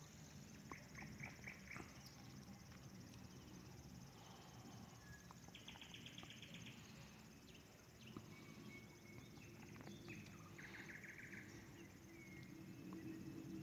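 Nightingale singing faintly in separate phrases a few seconds apart: fast rattling trills of rapidly repeated notes and short clear whistles, over a low steady hum.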